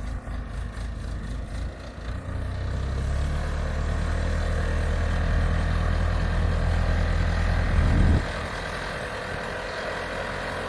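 Backhoe engine running, working harder and louder from about two seconds in, then a brief rise in pitch and an easing back to a lighter steady run near the end.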